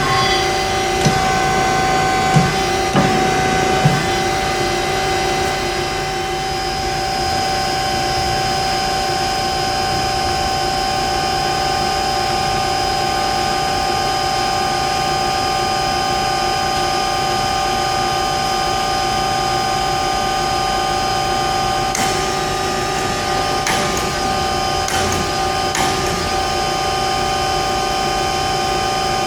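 HEM VT125HA-1 vertical tilt-frame band saw running with a steady machine whine. A few sharp clicks and knocks come in the first few seconds and again about three quarters of the way through.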